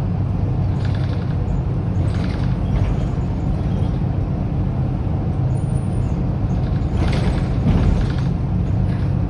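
Mercedes-Benz O530 Citaro city bus's OM906hLA diesel engine and ZF Ecomat automatic gearbox running with a steady low drone, with a few brief louder noises about a second, two seconds and seven seconds in.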